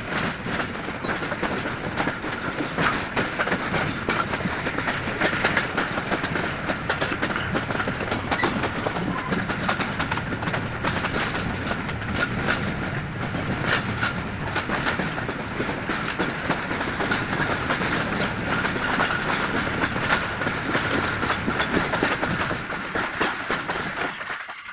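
Pakistan Railways Green Line express train running on the track: a steady rumble with a dense clatter of wheels over rail joints and a thin, steady high tone. The sound cuts off suddenly at the end.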